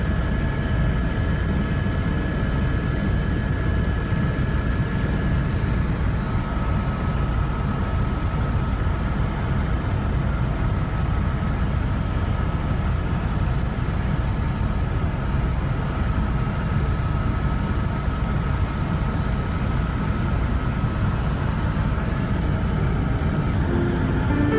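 Steady low rumble of a vehicle in motion, with a faint steady whine above it.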